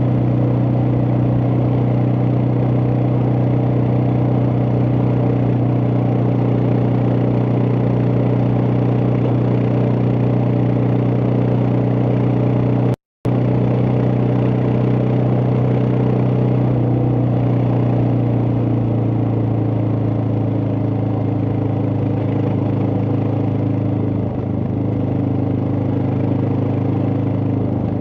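Suzuki DR650's single-cylinder engine running at a steady speed under way, with wind and road noise. The note eases off in the last third, as if slowing. The sound cuts out completely for a moment about halfway through.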